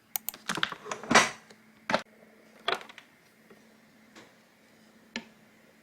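Kitchen handling sounds: a quick run of sharp clicks and knocks, the loudest a short clatter about a second in, then single knocks every second or so.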